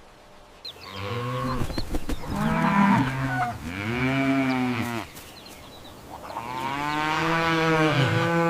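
A cow mooing: long, low moos, one after another.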